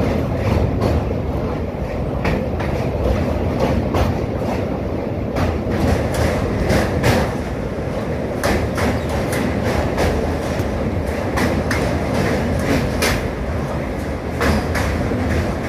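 A train running across a steel truss rail bridge, heard from aboard: wheels on the rails make a steady low rumble, with frequent sharp clacks.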